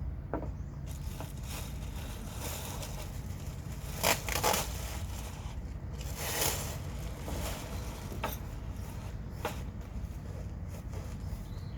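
Scraping and rustling sounds, loudest about four seconds in and again a couple of seconds later, over a steady low rumble.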